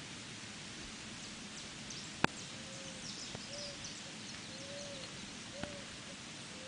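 Steady rain hiss with birds calling: a bird gives a run of short, low, arched hoots from about a third of the way in, over faint high chirps. A single sharp click, the loudest sound, comes about a third of the way in.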